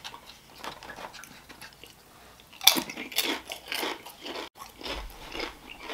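Close-up eating sounds: a person chewing food with crisp crunches, faint at first, then a loud bite about two and a half seconds in followed by steady chewing at about two crunches a second.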